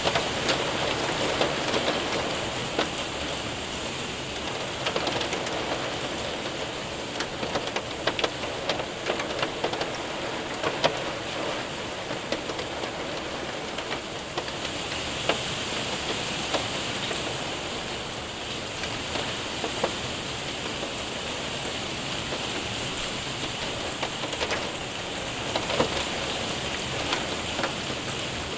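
Steady rain pattering on a window and roof, with scattered sharp ticks of hailstones striking among it.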